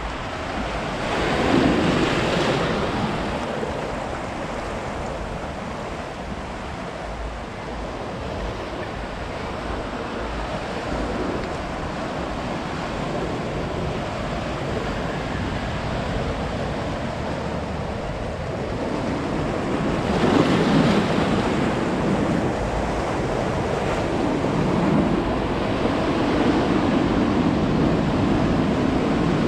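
Ocean surf: waves breaking and washing in, a steady rushing that swells louder as a wave breaks about two seconds in and again about twenty seconds in.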